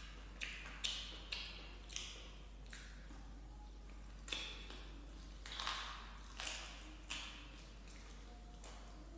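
Close-up mukbang eating sounds: wet chewing and lip smacks as rice and vegetable stew are eaten with the fingers, in short irregular bursts separated by brief pauses.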